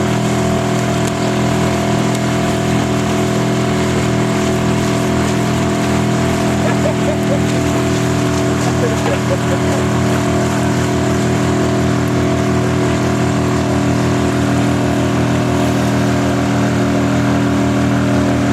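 Motorboat engine running steadily under way, a constant drone with an even throb.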